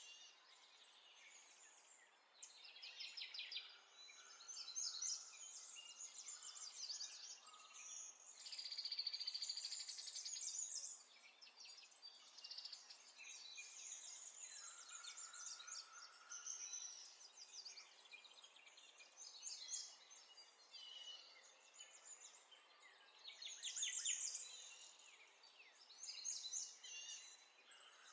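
Faint birds chirping in irregular bursts over a low background hiss.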